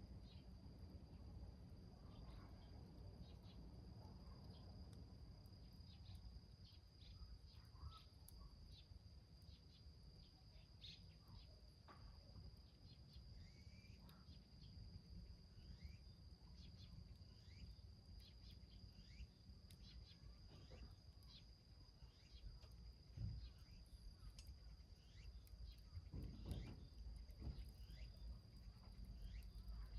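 Faint crackling and popping of a small wood fire burning inside a tin can, over a steady high-pitched insect trill.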